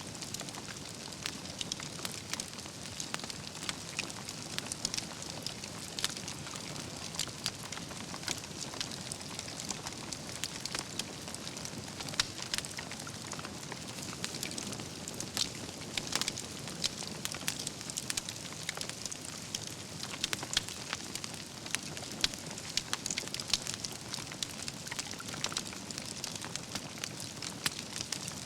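Wood campfire burning with a steady hiss and constant irregular crackling, with sharper louder pops every few seconds as the logs burn.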